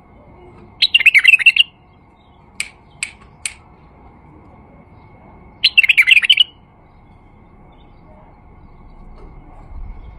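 Male white-eared bulbul singing: a short, rich warbled phrase, then three quick sharp notes, then another warbled phrase a few seconds later.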